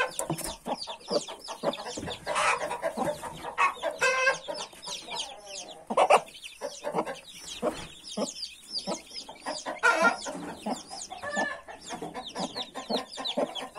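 A brood of many newborn chicks peeping continuously in high, quick, overlapping cheeps, while the mother hen clucks in lower calls every second or two.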